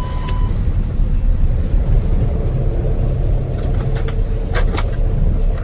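Steady low rumble of airflow in the cockpit of an Airbus A320 gliding with both engines out, with a faint steady hum. A steady beep tone stops about half a second in, and a few faint clicks come near the end.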